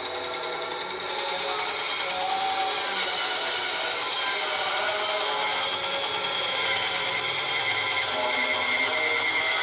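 Ryu RBS 8 bandsaw running and cutting through wood, a steady mechanical whir with a wavering high tone. It is a little quieter for about the first second, then holds steady.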